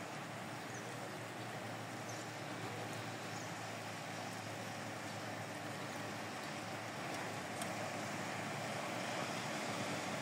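Steady rain falling on flat, puddled rooftop terraces: an even hiss that grows slightly louder in the second half.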